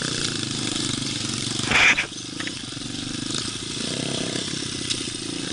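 Pit bike's small single-cylinder four-stroke engine running while being ridden through snow. There is a brief loud rushing burst about two seconds in, after which the engine runs on a little quieter.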